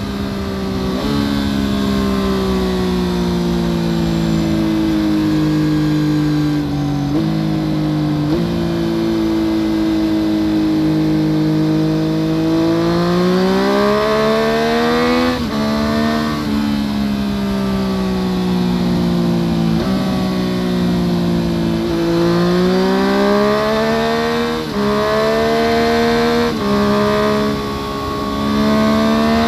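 2014 Yamaha FZ-09's three-cylinder engine through an Akrapovic full exhaust system, heard from under the seat while riding. The engine note sinks slowly as the bike rolls off, jumps up twice about seven and eight seconds in, and later climbs under throttle. It drops suddenly at upshifts, about fifteen seconds in and again near twenty-five and twenty-seven seconds.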